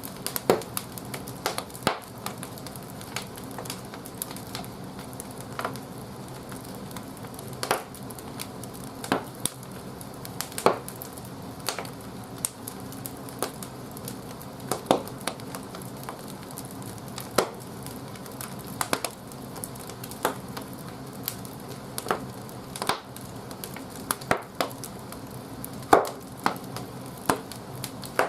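Large firewood burning in a wood-fired bathhouse boiler's firebox, with irregular sharp pops and crackles, roughly one every second, over a steady low rush.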